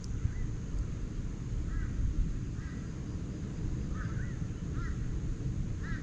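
Birds calling: short, arching call notes repeated about seven times at irregular intervals, over a steady low rumble.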